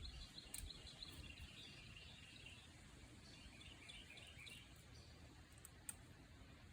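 Near silence with faint birds chirping in the background and a couple of faint clicks.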